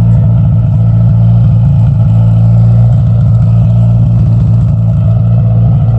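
Car engine idling close by: a loud, steady, low-pitched running sound.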